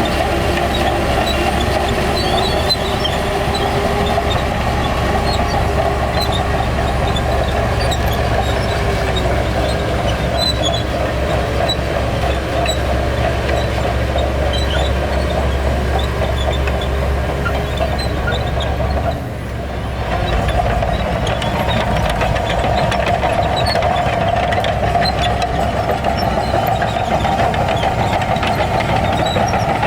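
Heavy diesel earthmoving machinery running steadily under load. The deep rumble eases about two-thirds of the way in, with a brief dip in loudness, then the machine runs on.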